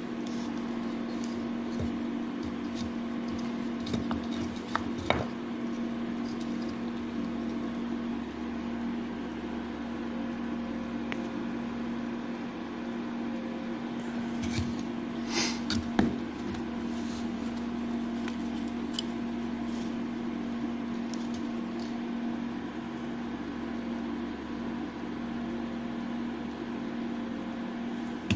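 Homemade CNC router running: a steady machine hum with one strong, even tone, broken by a few light clicks and knocks, a small cluster of them about fifteen seconds in.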